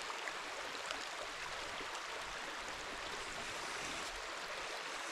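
A small stream running over rocks with a steady rush of water.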